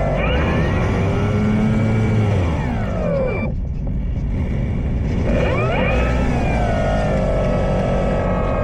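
Electric motor and propeller of an E-flite Draco RC plane running with a whine that falls away as the throttle is cut about three and a half seconds in, then rises again less than two seconds later as power comes back. Wind rumbles on the microphone throughout.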